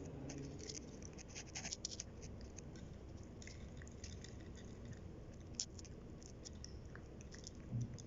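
Cats eating, with quick irregular clicks of chewing and biting on food.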